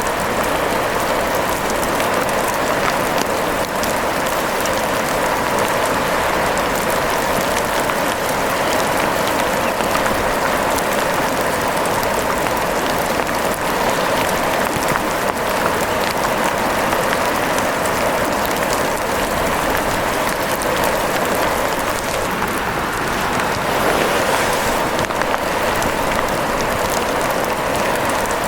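Steady rain: an even hiss with fine scattered drop ticks that stays level throughout.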